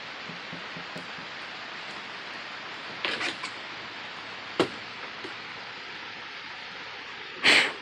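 Steady rain hiss. A few short bursts come around the middle, with a sharp click after them, and a short loud burst of noise comes near the end.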